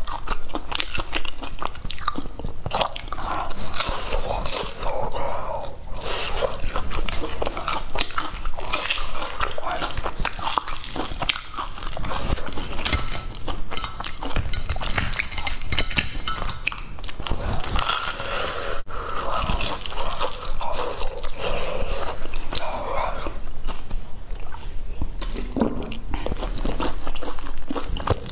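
Close-miked chewing and crunching of crispy fried patties: many small, irregular crunches as the crust is bitten and chewed.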